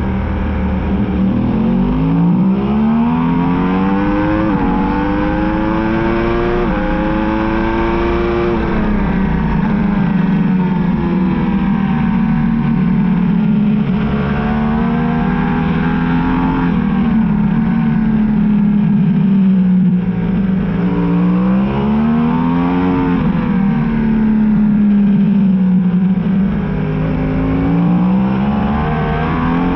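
Yamaha R1 sportbike's inline-four engine under hard acceleration, its pitch climbing and dropping sharply at each upshift, twice in the first ten seconds. It then falls away as the bike slows for corners and climbs again on the way out.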